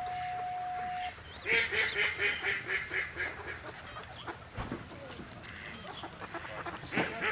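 A bird calling in fast series of short, pitched notes, about eight a second: one run of calls from about a second and a half in, and another near the end. Before them, a steady single tone stops about a second in.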